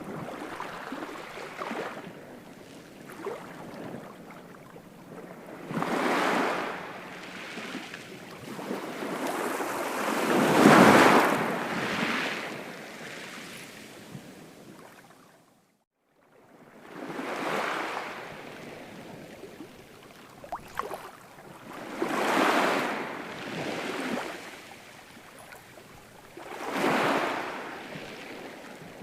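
Ocean waves breaking and washing in, swelling into a surge every few seconds, the loudest about a third of the way in. About halfway there is a sudden brief drop to silence before the surf comes back.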